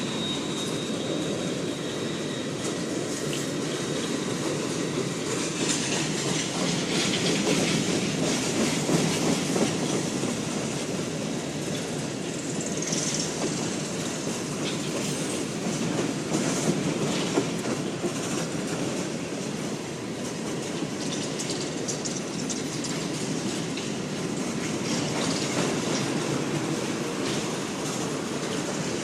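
Freight train cars rolling past on the rails with a steady rumble of wheels and rail noise, clickety-clack from the rail joints, and brief scattered squeals from the wheels.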